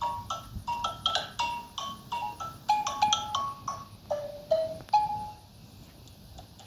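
Xylophone played note by note in a simple melody, each struck note ringing briefly. The last notes are lower, and the playing stops about five seconds in.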